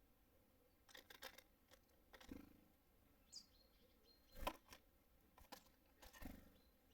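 Faint, irregular taps and knocks, some with a dull thump, of small birds landing on and pecking at a wooden bird feeder, with a short high bird chirp about three seconds in.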